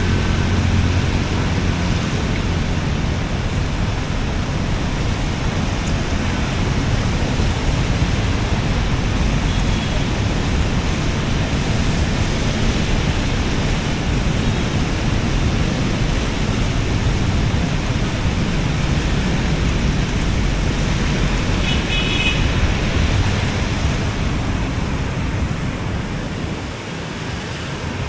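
Steady wash of seaside noise: surf and passing road traffic blending into a continuous hiss, with a brief faint high tone about twenty-two seconds in.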